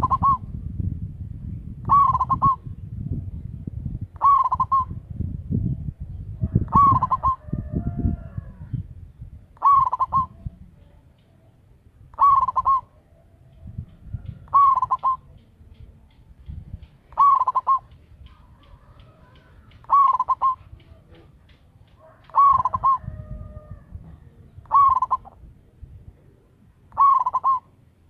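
Zebra dove (perkutut), a lure hen calling to draw in males, giving a short loud coo about every two and a half seconds. A low rumble of background noise runs underneath.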